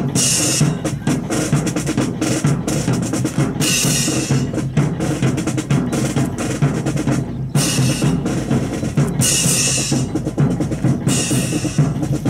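Drum music accompanying the drill: bass drum and snare playing a fast, steady beat, with several brighter, hissing stretches of about a second each.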